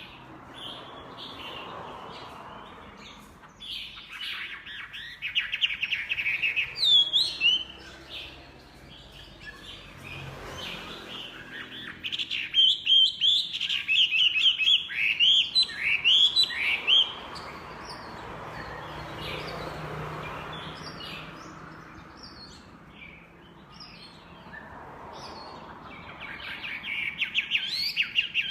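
Chinese hwamei (melodious laughingthrush) singing in three loud bursts of fast, repeated whistled notes with quick upward slurs, a soft hiss between the phrases.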